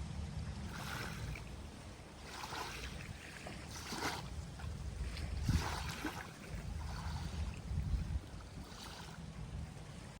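Small waves washing in on the shore in a series of short splashes about every one to two seconds, over a steady low rumble of wind on the microphone.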